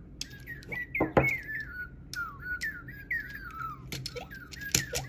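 A run of short, falling bird-like chirps and whistles, voicing the pet bird as she sings while playing. Sharp clicks and knocks of toys being handled come in between, the loudest about a second in and several more near the end.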